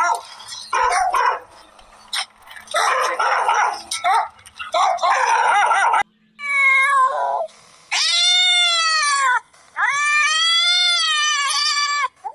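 A dog calls in several short bursts. About halfway through, a cat takes over with three long, drawn-out meows, each falling in pitch at its end.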